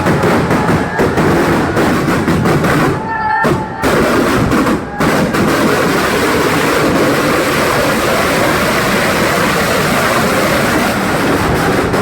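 Heavy kathina ground firecrackers going off in a rapid salvo: separate bangs in the first few seconds, merging from about five seconds in into a continuous wall of blasts.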